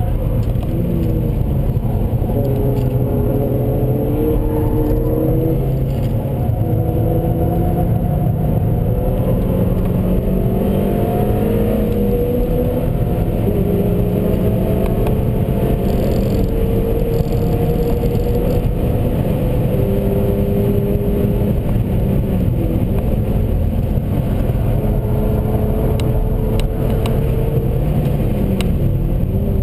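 Seat Leon Cupra 1P's 2.0-litre turbocharged four-cylinder engine pulling hard at speed, its pitch rising slowly through each gear and dropping back at the shifts, over heavy road and tyre rumble.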